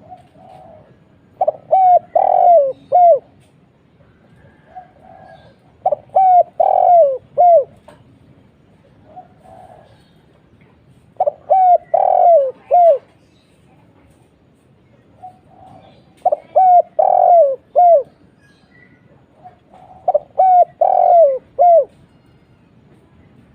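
Spotted dove cooing in repeated phrases, about five in all, each a soft opening note followed by a run of four or five loud coos, the last one falling in pitch. This is the deep-voiced single-'kuk' call used as a lure to get young spotted doves to call.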